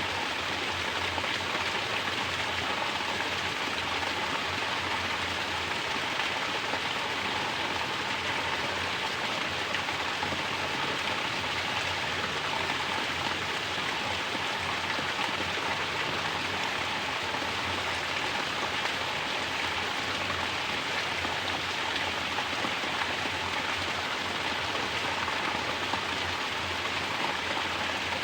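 Mountain water pouring down in a natural shower, splashing steadily without a break.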